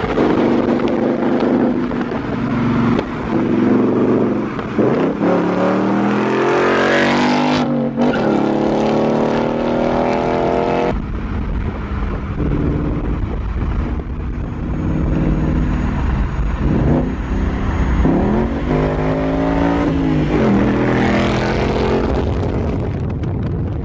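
Performance car engine accelerating hard several times, its pitch climbing through the revs and dropping back at each gear change, with an abrupt cut to a new pass about eleven seconds in.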